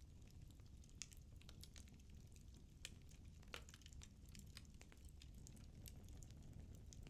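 Firewood burning in a fireplace: faint, irregular crackles and small pops over a low, steady rumble of the flames.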